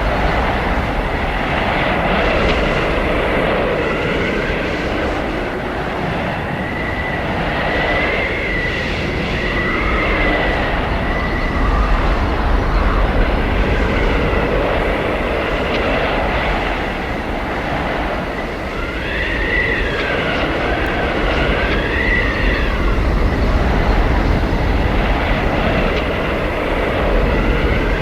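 Blizzard wind howling: a steady roar with slow gusting swells and a thin whistling tone that bends up and down, most clearly around a third of the way in and again past the middle.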